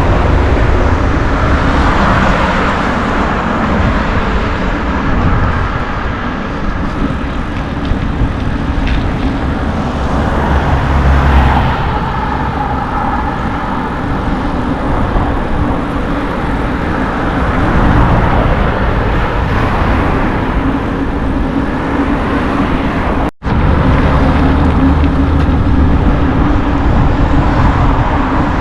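Wind buffeting on the microphone and tyre rumble while riding a bicycle: a loud, steady rumble, briefly cut off about 23 seconds in.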